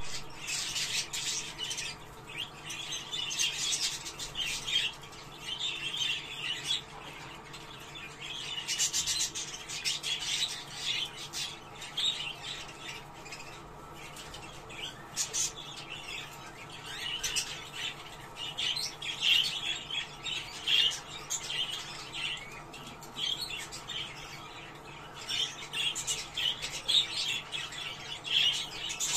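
Budgerigars chattering with a dense, irregular run of chirps and squawks: the lively warbling chatter used to stimulate budgies into breeding condition.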